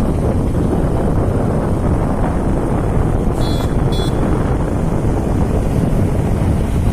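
Steady wind rush and road noise on a moving motorcycle, the wind buffeting the microphone. Two short, high-pitched beeps sound about three and a half and four seconds in.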